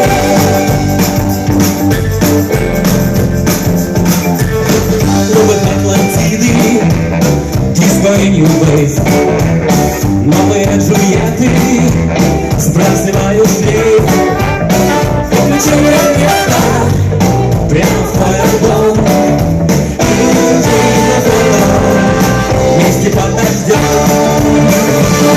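A band playing an upbeat 1960s-style rock-and-roll song, with guitar and a singing voice.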